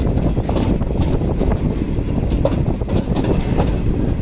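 Passenger train running on the rails: a steady rumble of the wheels with irregular clicks and knocks from the track.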